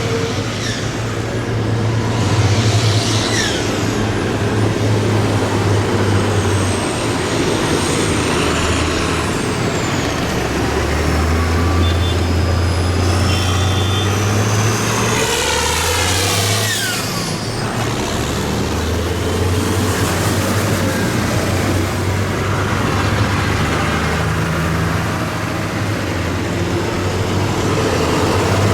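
A procession of tractors driving past, their diesel engines running steadily at low revs, with the engine note shifting as each one goes by. One passes close about halfway through.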